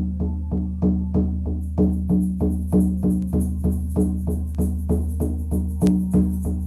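Hand drum beaten in a steady rhythm, about three beats a second, over a low sustained tone. A high, shimmering rattle joins about two seconds in.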